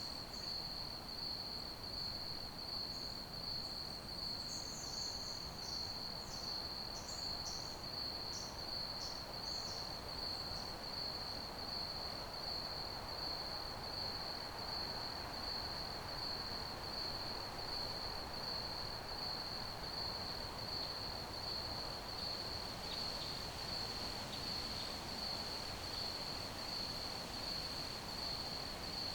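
Crickets chirping in a steady, high-pitched, evenly pulsing trill over a soft background hiss. A few brief, higher chirps come and go during roughly the first ten seconds.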